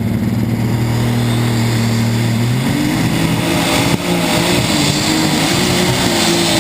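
Alcohol-fuelled super stock pulling tractor's multi-turbo overhead-cam engine running at a steady pitch, then revving up about two and a half seconds in and holding at the higher pitch under load.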